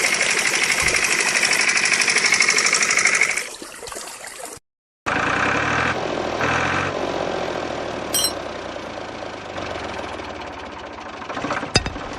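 Small motor of a homemade model running with a fast, rattling buzz. It fades and cuts out a little over four seconds in, then a lower mechanical hum picks up, with a couple of sharp clicks near the end.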